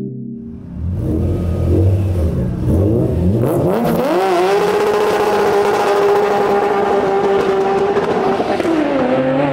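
Sports car engine revving in quick rises and falls, then climbing to high revs and holding there steadily for about four seconds before the revs drop near the end.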